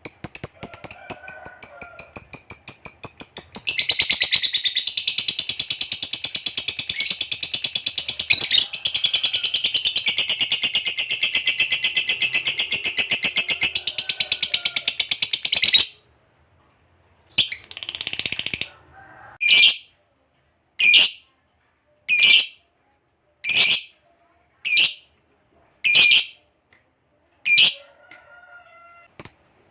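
Lovebird giving a long, very rapid, high chattering trill ('ngekek panjang') for about sixteen seconds that stops abruptly, followed by single sharp high chirps about every second and a half.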